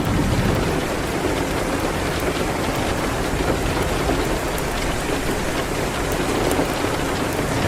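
Steady rain falling, an even hiss of drops with a few faint, sharp ticks.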